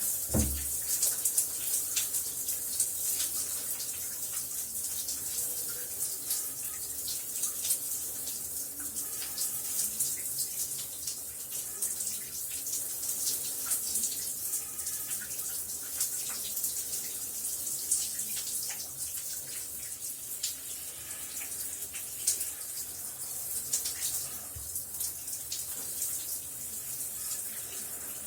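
Shower running: a steady hiss of water spray with many small spattering drops, and a brief low thud just at the start.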